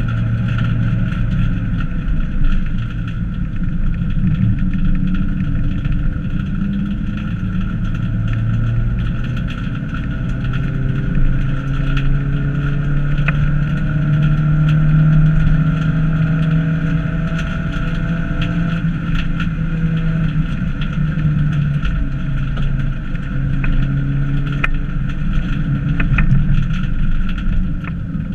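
Fiat Cinquecento hillclimb race car's engine (class up to 900 cc), heard from inside the stripped cabin, driven hard with the revs climbing and dropping through the gears. A steady high whine runs under the engine, and a few sharp clicks and knocks come through.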